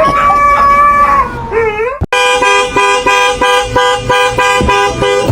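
A dog howls for about two seconds. Then a car horn comes in abruptly and blares, broken by quick regular pauses.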